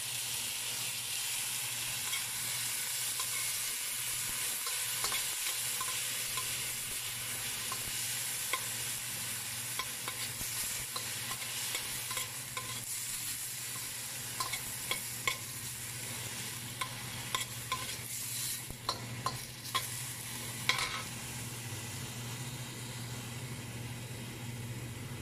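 Sliced tomatoes and onion sizzling in oil in a stainless steel wok, stirred with a metal spoon that scrapes and clinks against the pan. The clinks come mostly in the second half.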